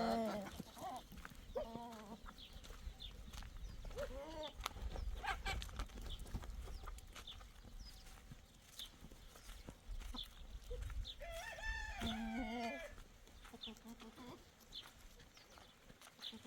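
Chickens clucking, with a rooster crowing once about twelve seconds in.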